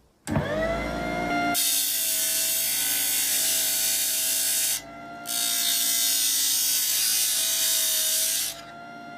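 An electric rotary power tool spins up with a rising whine. It then grinds against metal in two long passes with a short break between them, stripping rust from the toy truck's steel. Near the end it runs on, lighter and unloaded.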